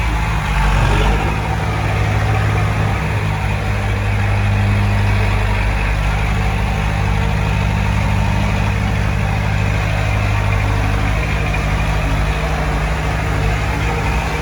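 Heavy diesel earthmoving machinery running steadily, with a brief swell in engine sound about a second in.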